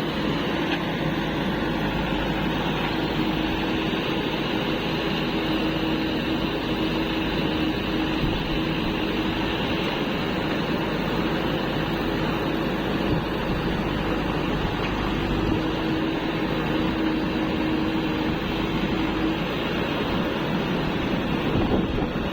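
Heavy diesel engines of a backhoe loader and tractors running steadily, with a steady hum that swells a little at times.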